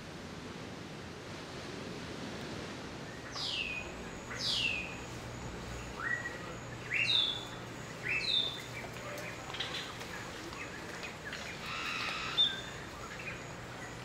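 Bird calls over a steady background hiss: two long falling whistles about three and four seconds in, then several short two-part calls and a scatter of quicker notes.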